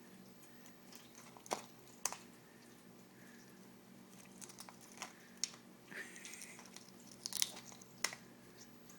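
Eclectus parrot biting and pecking at a whole egg: irregular sharp clicks and crunches of its beak on the eggshell, about seven clear ones spread over several seconds with softer crackling between.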